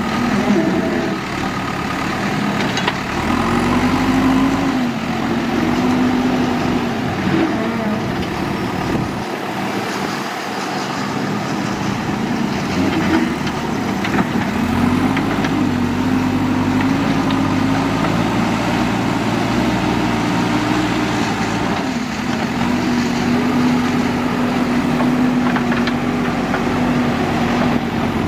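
Heavy diesel engine of earthmoving machinery running, its revs rising and falling several times under load, then holding steady for the last several seconds.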